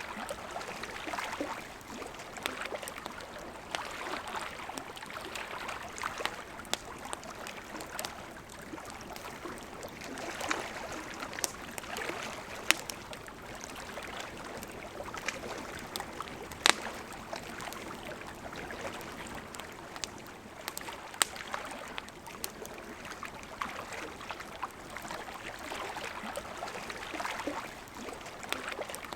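River water running steadily, with a campfire crackling over it in scattered sharp pops, one loud pop about two-thirds of the way through.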